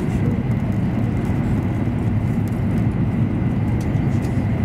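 Cabin noise inside an E7 series Shinkansen running at speed: a steady low rumble of wheels, track and air, with a faint thin high tone held throughout.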